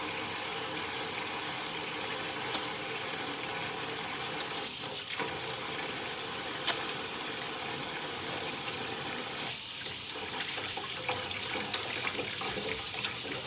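Steady rush of water running from a tap, briefly interrupted twice, about five and ten seconds in.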